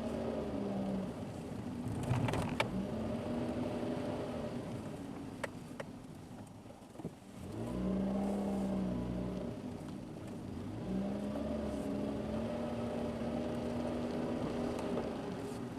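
Car engine and road noise inside the cabin, picked up by a dashboard camera on a narrow mountain road. The engine note eases off and goes quiet about six seconds in, then picks up again twice under throttle. A few sharp clicks come early and again about five seconds in.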